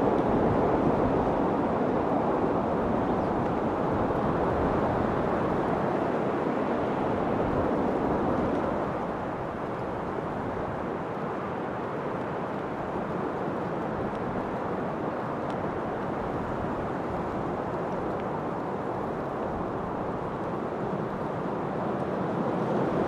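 Steady rushing wind, louder in the first several seconds, easing off about nine seconds in and building again near the end.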